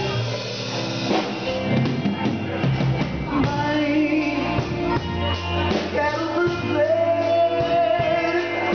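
Pop-rock band music with guitar, bass and drums playing at a steady beat, with a voice singing over it.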